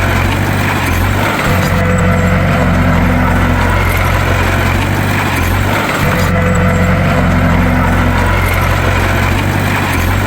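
Heavy diesel bulldozer engine running steadily under load, a deep constant hum with a slight shift that recurs about every four and a half seconds.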